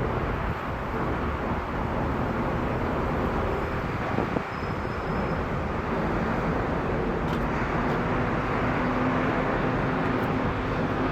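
Boeing 777-200LR's GE90 turbofan engines at takeoff thrust: a steady, rushing jet noise with a faint low hum running through it.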